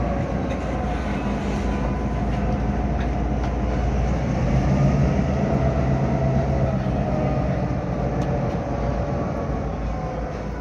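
EMD GP38 diesel switcher locomotive running, its 16-cylinder two-stroke engine giving a steady low rumble with a fainter higher whine over it, swelling slightly about halfway through.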